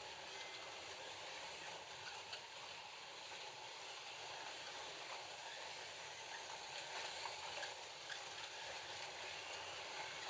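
Slot cars running laps around the track: a steady hissing whir of their small electric motors, with a few faint clicks.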